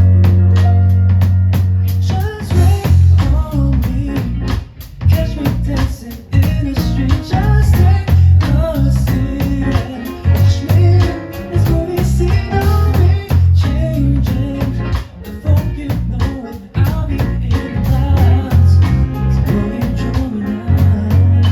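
A live band playing a pop song: a drum kit keeping a steady beat over sustained bass notes and guitar.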